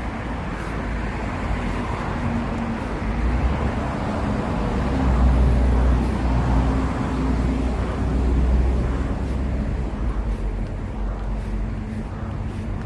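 Street traffic: vehicle engines running close by over a steady noise of road traffic, the low engine hum swelling louder about five seconds in and again near nine seconds.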